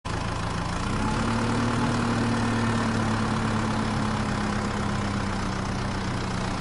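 Small motor running steadily, driving a homemade model rice mill: an even mechanical hum with a low drone under it.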